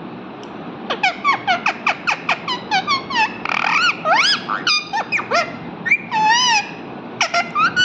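Parrot calling: a quick run of short, falling chirps, about five a second, then a harsh squawk and a few longer up-and-down whistles, with a few more chirps near the end.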